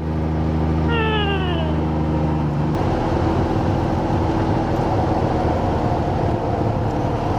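Motorcycle engine running at road speed with wind and road noise; its steady note turns rougher a little under three seconds in. About a second in comes one short falling, voice-like call.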